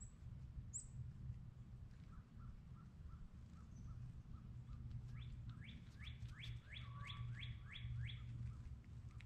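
A small songbird singing faintly: soft repeated notes, then a series of about nine quick rising notes, about three a second, over a steady low hum.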